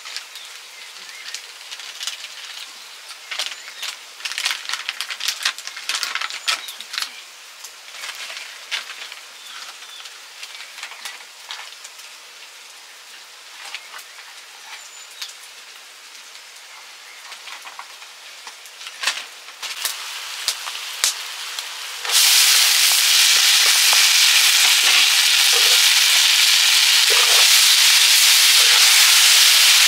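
Food frying in hot oil in a pan: scattered crackles and pops, then about two-thirds of the way through a loud, steady sizzle starts suddenly.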